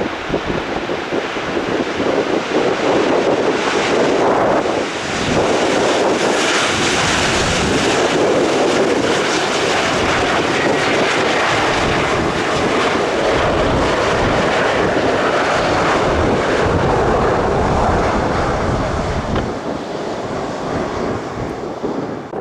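Jet airliner passing close by on its landing approach: the engine noise builds over the first few seconds, holds loud, then fades near the end. Gusty wind buffets the microphone.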